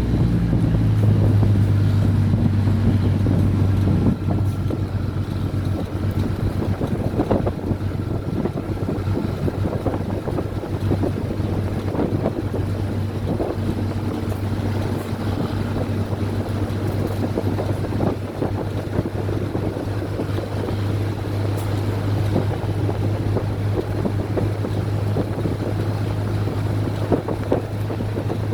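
Train running: a steady low drone with scattered clacks and rattles.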